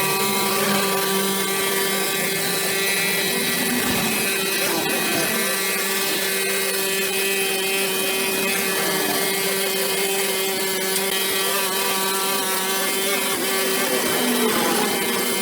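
Petrol brush cutter's small engine running steadily at high speed, with an unchanging high hum.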